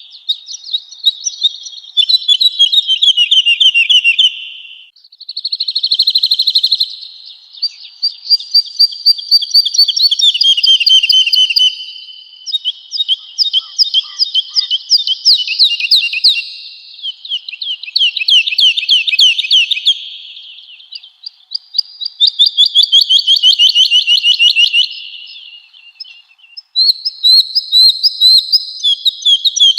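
Woodlark singing: about seven high, fast trilled phrases of rapidly repeated notes, each lasting a few seconds, with brief pauses between them.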